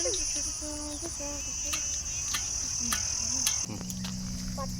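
A steady high-pitched insect trill, like crickets, that stops about three-quarters of the way through, with a few light clicks and faint voices behind it. A low steady hum comes in near the end.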